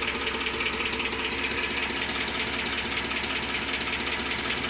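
Ford 4.6-litre three-valve V8 idling steadily with a fast, even ticking, clicking noise over the engine sound, a noise whose cause the owner has not yet found.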